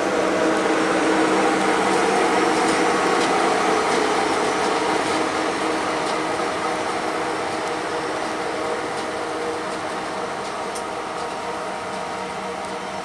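A slow-moving freight train passing: wheels rolling on the rails and the steady hum of a diesel locomotive, fading gradually as the train moves away.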